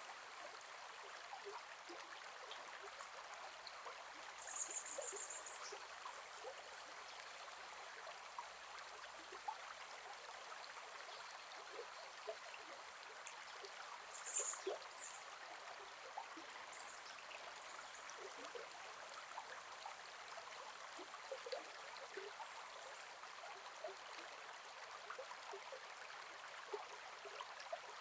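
Gentle forest river flowing: a steady rush of water with small trickles and gurgles. Two brief high-pitched chirps stand out, about five seconds in and again around fourteen seconds.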